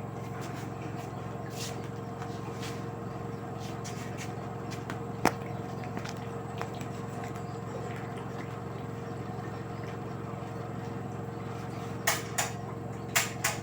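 LG direct-drive washing machine running with a steady low hum and a steady whine. There is a sharp click about five seconds in and a quick run of four clicks near the end.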